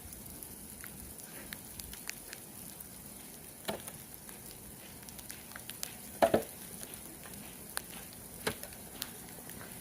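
Faint crackling hiss with scattered small clicks and a few soft thuds, from someone moving about and working in deep snow.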